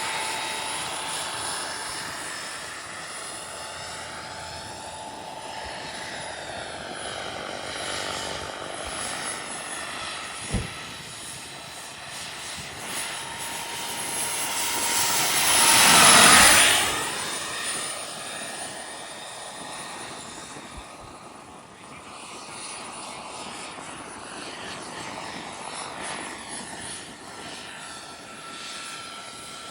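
Turbine-powered scale RC helicopter in flight, its high turbine whine and rotor sound swelling as it passes close about halfway through, then fading, the whine dropping in pitch as it goes by. A single sharp click about a third of the way in.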